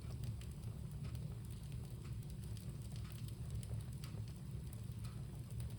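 Wood bonfire crackling, with scattered sharp pops and snaps over a steady low rumble of the flames.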